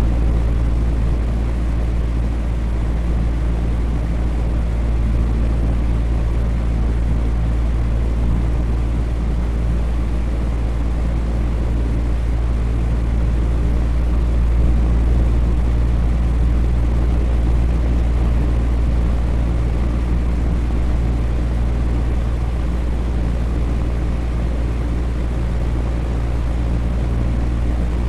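Electric fan running steadily: an even whooshing noise with a strong low rumble and a faint steady hum.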